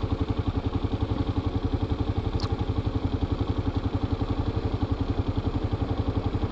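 Kawasaki KLR motorcycle's single-cylinder engine running steadily at an even, low speed, its firing pulses coming at a constant rate, with a brief high click about two and a half seconds in.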